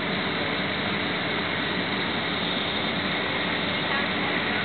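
Cabin noise inside a Boeing 767 taxiing after landing: a steady, even rush of engine and air noise with a faint high whine.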